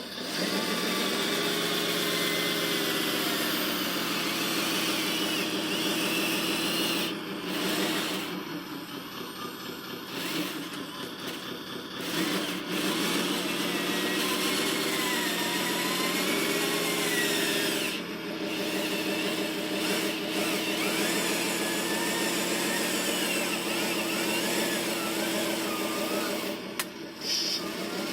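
Small electric motors and gearboxes of radio-controlled construction vehicles whining, the pitch rising and falling as they drive and work, with a quieter stretch about a quarter of the way in.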